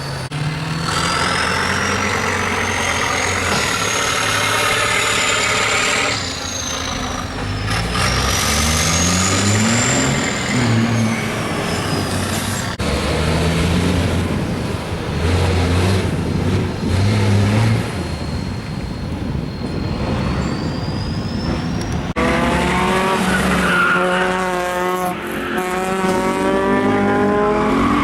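Heavy off-road trial truck engine revving up and down under load, its pitch rising and falling again and again, with a high whine gliding up and down alongside. The sound changes abruptly a few times, and near the end the engine climbs steeply in pitch.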